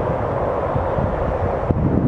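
Wind buffeting the microphone over a steady rushing noise, with a single sharp click near the end.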